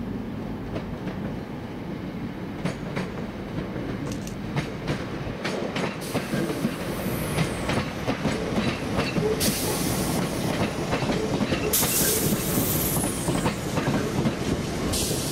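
A train running through the station, its wheels clicking over the rail joints, getting louder as it nears. Several short high-pitched bursts of hiss or squeal come in the second half.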